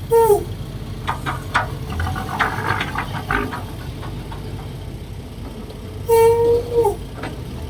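Kobelco SK135SR excavator at work: its diesel engine runs steadily under a series of clanks and knocks. Two short high-pitched whines cut through, a brief one at the start and a longer one about six seconds in, each dropping in pitch as it ends.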